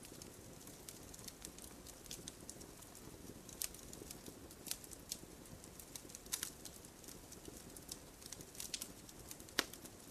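Wood fire crackling in a fireplace: irregular sharp pops and snaps over a soft steady rush of burning, with the loudest pop near the end.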